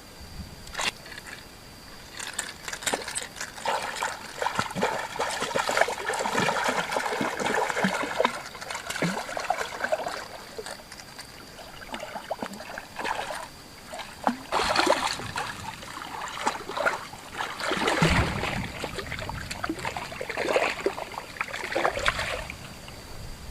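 Water splashing and sloshing in irregular bursts, with a faint steady high tone underneath.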